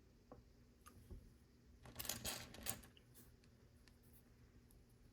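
Faint clicks and a short rattling rustle from small plastic Lego pieces being handled and sorted, loudest about two seconds in.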